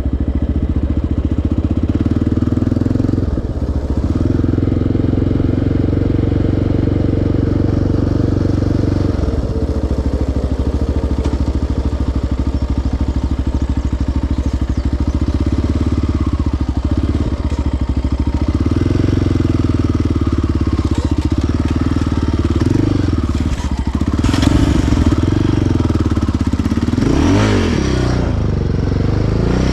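Single-cylinder four-stroke sport ATV engine running on the trail, its revs rising and falling as the throttle changes, with a sharp drop and climb in pitch near the end.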